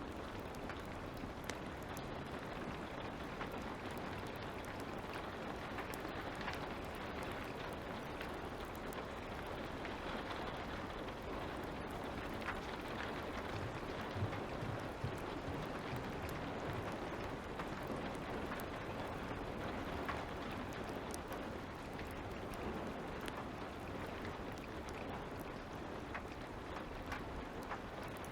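Light rain falling steadily, with the occasional small pop of a crackling fire.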